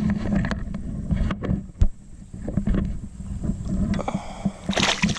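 Kayak on the water: irregular knocks on the hull and water noise as it is paddled along, with a louder rush near the end.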